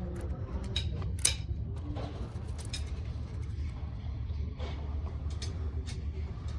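Scattered metallic clinks and taps, one sharper knock about a second in, over a steady low rumble.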